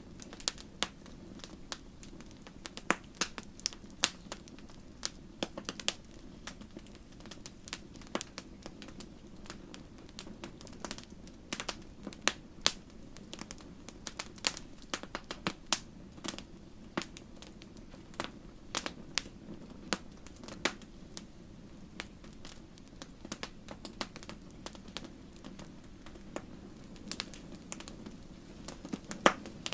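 Wood campfire crackling: sharp irregular pops and snaps over a steady low rush of flame.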